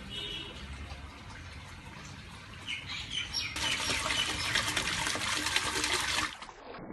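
Small homemade water fountain splashing into a pot, a steady pouring sound that grows louder about halfway through, then cuts off shortly before the end, with birds chirping briefly.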